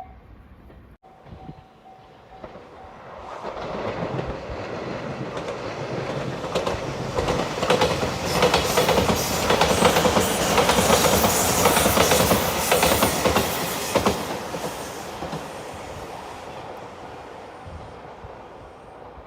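An electric train passes a level crossing. The crossing bell rings in quick repeated dings at first. Then the train's rumble and the clickety-clack of its wheels over the rail joints build a few seconds in, are loudest around the middle, and fade over the last few seconds.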